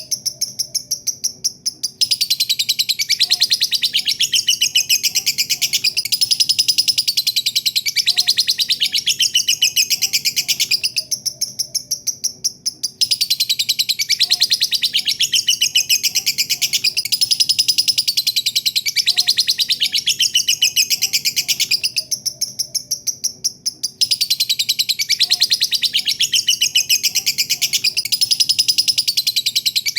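Lovebird giving its long chattering song (ngekek): a fast, unbroken run of shrill, high chirps that eases off briefly about every eleven seconds, then picks up again.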